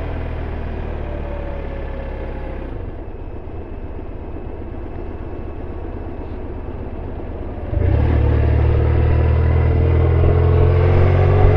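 BMW R1150RT's boxer-twin engine heard from the rider's seat. The engine note falls as the bike slows and eases off for a few seconds. About eight seconds in the throttle opens sharply and the engine pulls harder, rising in pitch as it accelerates.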